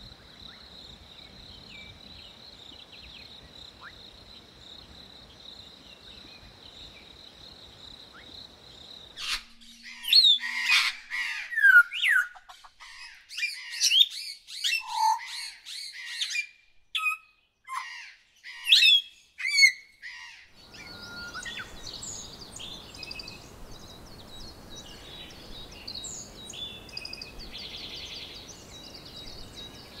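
Bird calls in an edited forest soundscape: a steady high drone over faint ambience, then about nine seconds in, loud separate bird calls with sliding whistles, squawks and clicks against a silent background, and from about 21 seconds softer chirping of several birds over faint ambience.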